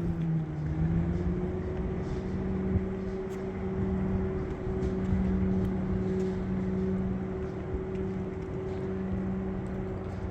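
Small engine of powered yard equipment running at a steady pitch, dipping briefly about half a second in and then holding, over a rush of wind.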